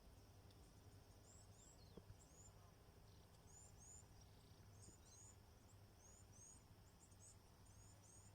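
Faint, high-pitched bird chirps repeating every second or so, often in quick pairs, over a low steady background hum.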